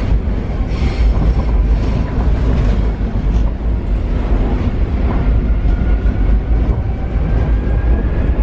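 Paris Metro train running along the line: a steady low rumble of wheels on rail, with a few clicks early on and a faint whine rising in pitch in the second half.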